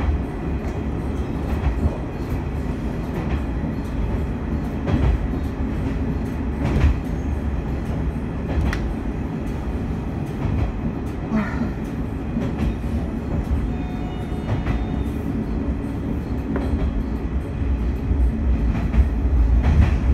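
Noto Railway diesel railcar running along the line, heard from inside the car: a steady low running rumble with a click every second or two as the wheels pass over rail joints.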